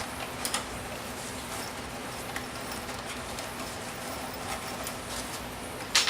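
Scattered light clicks and taps of small objects being handled, with a louder clatter at the very end.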